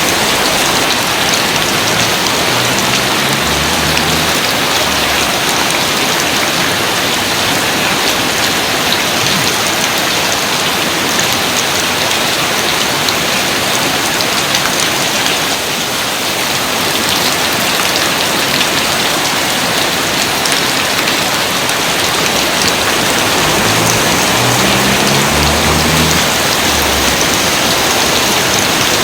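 Steady rain falling, a dense, even hiss of many drops with no break.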